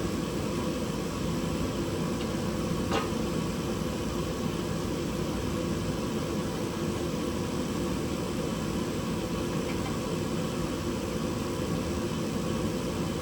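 Steady mechanical hum and hiss running evenly throughout, with one short click about three seconds in.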